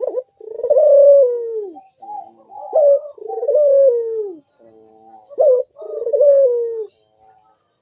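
Puter (Barbary dove) cooing, the deep, full 'bekur' coo: a run of about five phrases, several of them long, drawn-out notes that slide down in pitch, with short pauses between.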